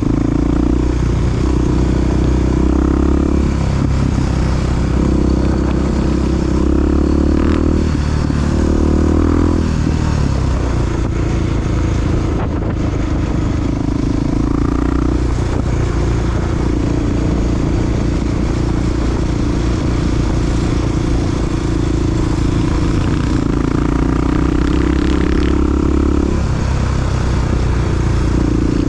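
Honda XR big-bore single-cylinder four-stroke dual-sport motorcycle engine running under way, its revs rising and falling every few seconds as the rider works the throttle.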